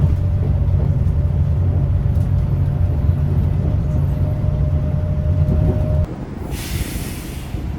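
A vehicle's steady low rumble with a faint hum stops about six seconds in. It is followed by a hiss of air lasting about a second, in the manner of an air brake releasing.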